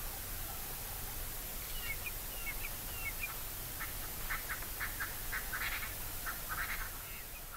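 A bird calling: a few short high chirps, then from about four seconds in a run of short harsh calls, roughly two a second, over a steady low rumble.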